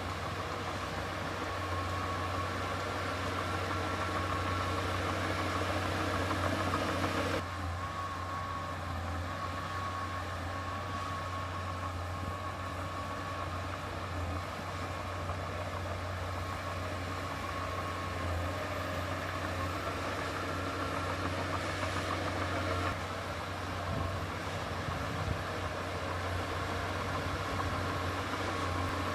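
Heavy earthmoving machine's diesel engine running steadily, with a deep hum and a thin steady whine. The sound changes abruptly about seven seconds in, losing much of its hiss, and shifts again near the end.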